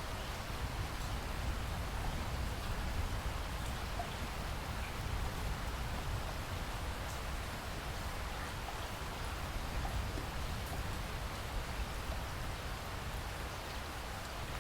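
Steady rainfall, with scattered small drop ticks over a constant low rumble.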